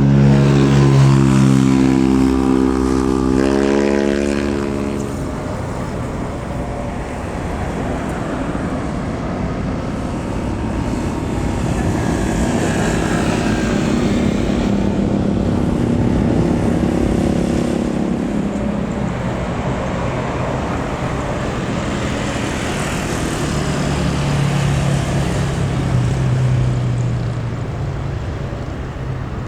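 Jet airliner passing close by, a broad roar that swells and eases. A droning tone at the start rises in pitch and drops away about four seconds in.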